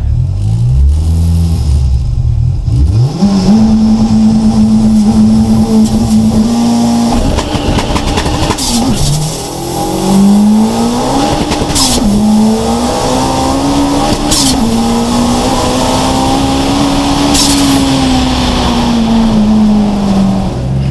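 Turbocharged 2.0-litre 16-valve four-cylinder (VW ABF) of a drag-built VW Golf Mk1, heard from inside the cabin. It idles, then is held at steady high revs for a few seconds before pulling hard through the gears. The pitch dips and climbs again at each of several gear changes, each marked by a short sharp crackle.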